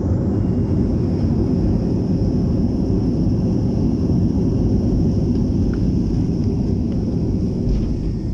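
BAe 146-200 jet airliner's four turbofan engines running with a loud, steady rumble and a high, steady whine over it.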